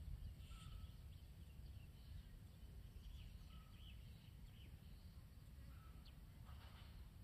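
Near silence: a faint low rumble of wind with a few faint, short bird chirps scattered through.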